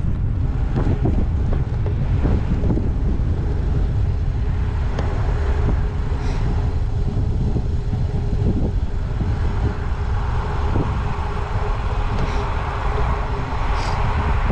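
Wind rumbling on a GoPro's microphone while cycling a gravel bike, with tyre and road noise underneath. A faint steady hum comes in about three seconds in.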